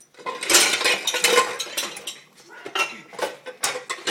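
Dishes and cutlery clinking and rattling in an open dishwasher rack as a dog licks them. There is a dense run of clatter in the first two seconds, then scattered clinks.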